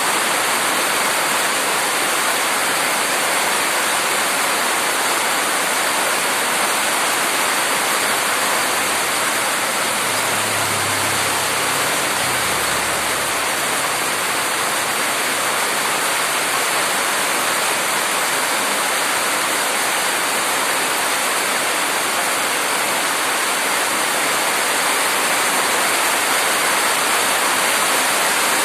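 Heavy rain falling steadily, a dense even hiss, with a faint low hum for a few seconds near the middle.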